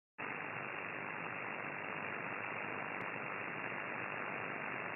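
Steady radio static from an SDR receiver's single-sideband audio, an even hiss cut off sharply above and below the voice band. It starts suddenly a moment in, out of dead silence.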